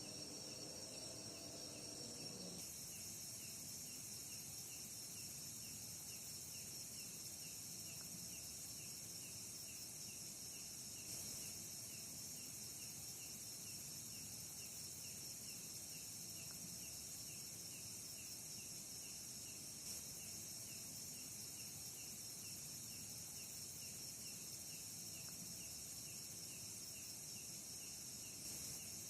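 Steady, high-pitched chirring chorus of night insects in a forest.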